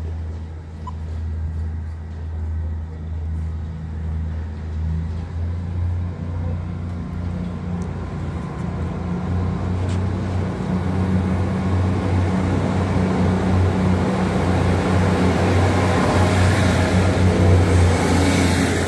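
Northern Class 158 diesel multiple unit with its diesel engines running, a steady low hum that grows louder and rougher toward the end.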